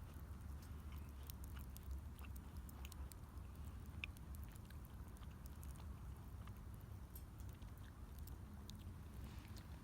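Wood fire crackling faintly, with scattered small sharp pops over a low steady rumble.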